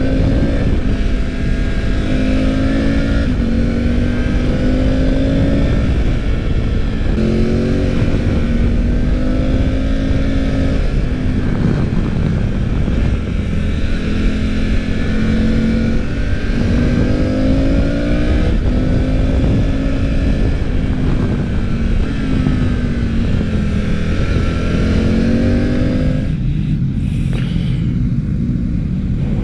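Triumph Tiger 900 Rally Pro's three-cylinder engine being ridden hard with the quick shifter. The note rises and falls again and again as the rider accelerates and changes gear, over wind rush. Near the end the engine note drops away.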